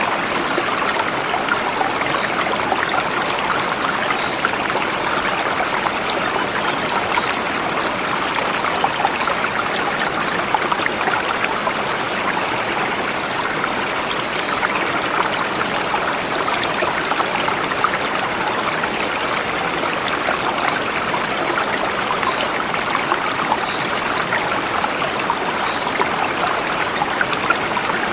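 A forest river flowing over rocks: a steady, continuous rush of water with fine splashing throughout.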